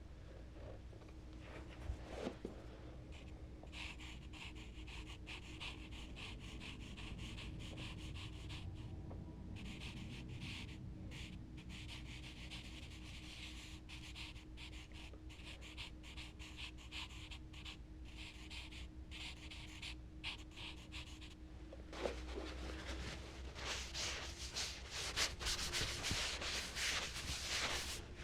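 Charcoal scratching and rubbing across smooth Bristol paper in quick repeated strokes, in runs with short pauses and loudest near the end, over a faint steady hum.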